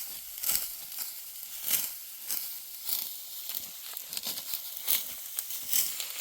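Dry wheat stalks being cut by hand with a sickle: irregular crisp crunching and tearing swishes, about one every half second or so, over a dry rustle.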